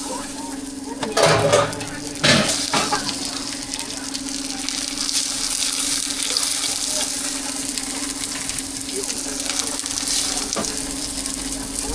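Food frying with a steady sizzle, which sets in after a few knocks about one to two seconds in and runs on evenly under a constant low hum.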